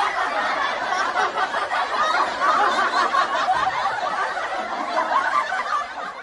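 Several voices giggling and laughing at once, a continuous overlapping chuckling that fades out near the end.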